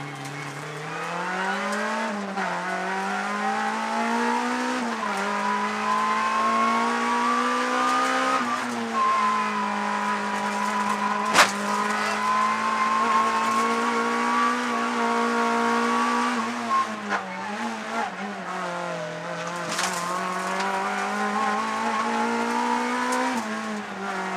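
Honda Civic rally car's engine running hard, heard from inside the cabin, its note climbing in pitch and dropping back several times as the driver changes gear. A single sharp knock about eleven seconds in, with a few lighter knocks later.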